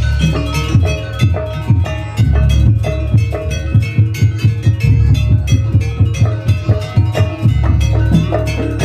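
Percussion-led gamelan-style music: drums and tuned metal percussion struck in a fast, dense rhythm over a heavy bass.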